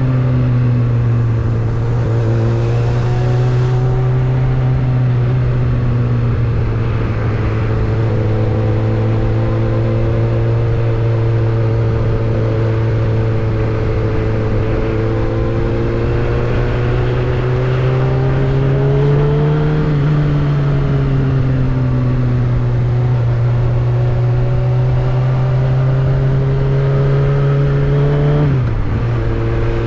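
Suzuki Bandit 600 motorcycle's inline-four engine and exhaust running steadily. The pitch rises a little about two-thirds of the way through, falls back, then dips sharply for a moment near the end.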